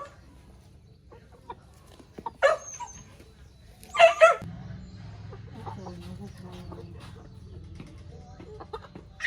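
Chickens squawking and clucking: two loud, short calls about two and a half and four seconds in, then fainter clucks, over a low steady hum that starts partway through.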